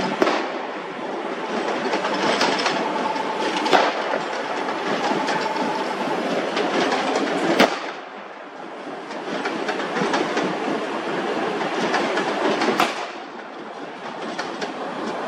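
Passenger train of Bohun coaches hauled by an EP07 electric locomotive running past, its wheels clattering steadily over the rails, with a few sharp cracks along the way.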